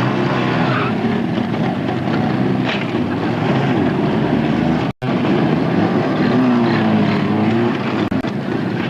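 Soviet-era motorcycle engines running and revving, their pitch rising and falling. The sound cuts out for an instant about five seconds in.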